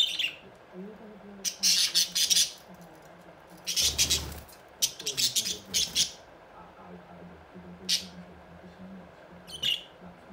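Pet budgerigars squawking and chattering in loud, harsh bursts, about six times at irregular intervals, over a faint steady hum.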